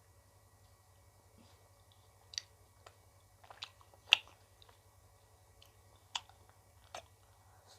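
Mouth sounds of a person eating ice cream on a stick: about six short smacks and bites spread apart, the loudest about four seconds in, over a faint low hum.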